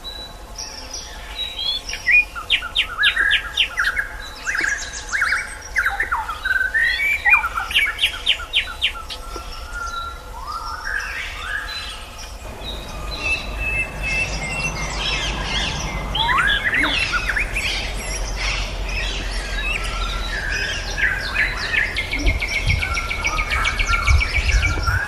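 Songbirds singing, a white-rumped shama among them: varied whistled phrases with sliding notes and fast trilled runs, one song overlapping the next. A steady low hum runs under the song from about halfway.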